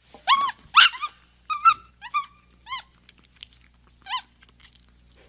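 Macaque calls: a series of about seven short, high-pitched, arching cries, the first few louder and the rest fainter and more spaced out.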